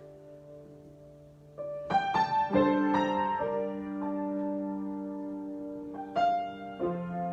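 Solo piano improvisation: a held chord fades away, then a run of new chords is struck about two seconds in and left ringing, with another chord near the end.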